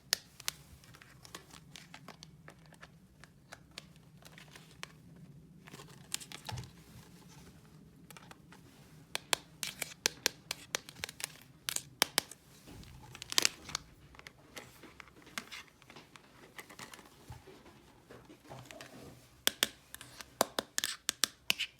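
Crinkling and tearing with bursts of sharp clicks, typical of hands opening and handling plastic toy packaging and parts. The busiest stretches come about nine to thirteen seconds in and again near the end.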